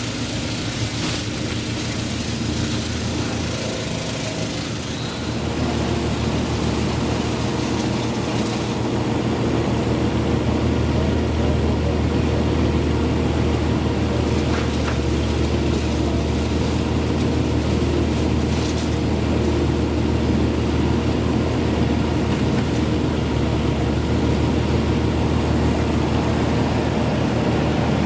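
A large engine on tree-removal machinery running steadily, picking up to a higher, louder run about five seconds in.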